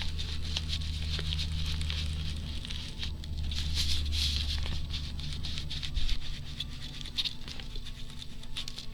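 An ink pad is dabbed and rubbed along the edges of thin, fragile boiled paper, making a soft, irregular pattering and brushing over a steady low hum.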